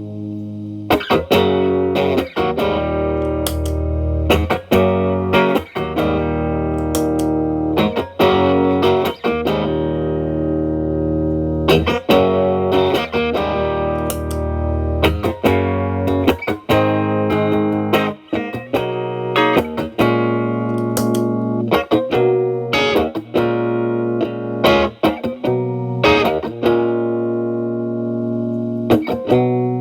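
Electric guitar, a Telecaster through an E.W.S. Brute Drive (BD-1) distortion pedal with its gain at zero into a Marshall Valvestate amp's clean channel, playing struck chords that ring out between strikes.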